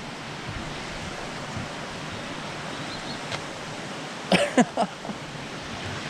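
Steady rushing of a waterfall and its stream. About four seconds in come three short, loud cries.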